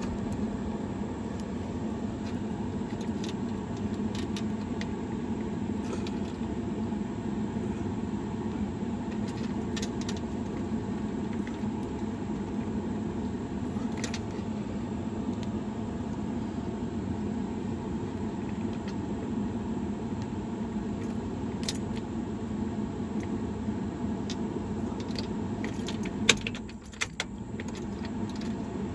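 Keys on a key ring jangling and clicking while the key is worked in a Chevy C10's ignition lock cylinder and a paper clip is pushed into the cylinder's release hole. Scattered light metallic clicks, with one sharp click about 26 seconds in, over a steady low hum.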